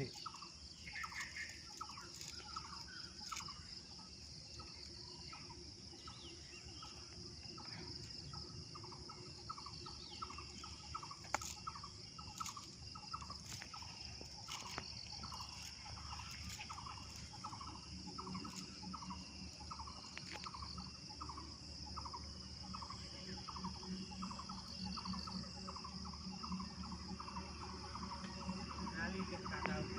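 Steady high-pitched drone of crickets and other insects, with a long run of short repeated animal calls, about one and a half a second, that keeps going almost the whole time.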